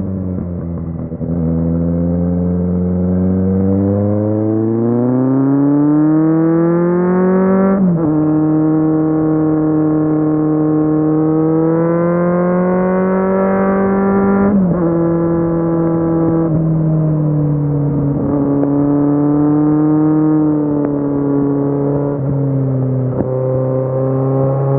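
Kawasaki Z750 inline-four motorcycle engine pulling hard through the gears: the revs climb steadily, drop sharply at upshifts about 8 and 14.5 seconds in, climb again, then rise and fall more gently as the throttle is eased on and off.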